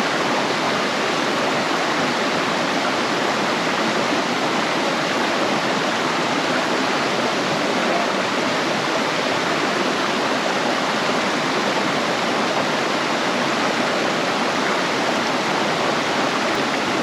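Rushing mountain stream: fast water running over rocks in a steady, loud wash.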